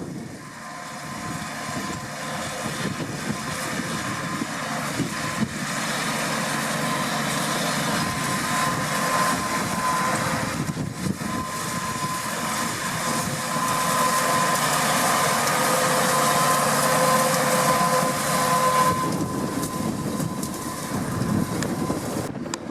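New Holland T7.235 tractor running under load with a CLAAS Liner rotary rake, with a steady whine over the engine. It grows louder as it comes closer, then falls away about nineteen seconds in.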